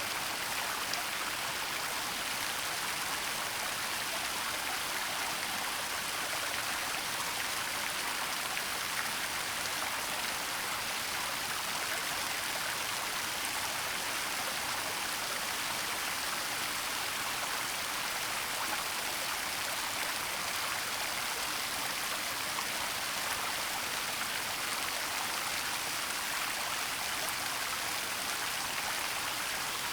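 Waterfall rushing steadily, an even hiss of falling water with no breaks or changes.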